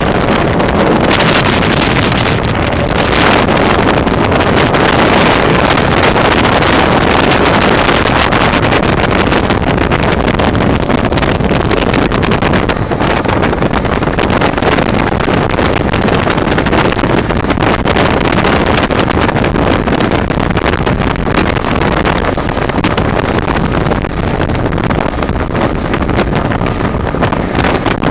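Motorboat underway on open water: a steady engine and hull rush with wind buffeting the microphone.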